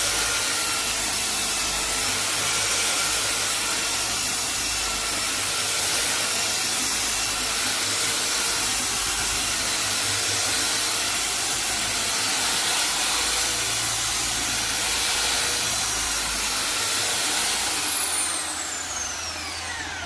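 A high-speed power tool motor running with a steady high whine, then switched off near the end, its pitch falling as it spins down.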